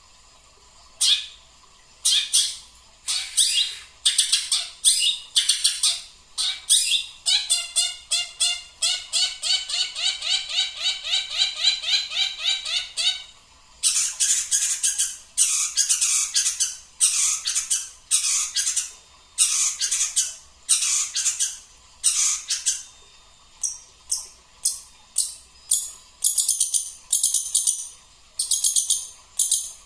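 Small songbird singing close by: short scratchy phrases repeated every half second or so, with a fast trill of rapidly repeated notes from about seven to thirteen seconds in.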